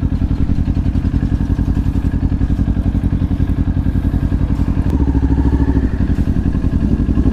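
Kawasaki Ninja 400's parallel-twin engine running at idle, a steady rapid pulsing exhaust note; the note grows briefly louder and fuller around five seconds in.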